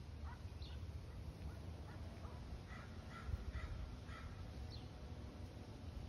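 Faint birds calling: a few short chirps, then about three seconds in a run of four short calls about half a second apart, over a low steady rumble.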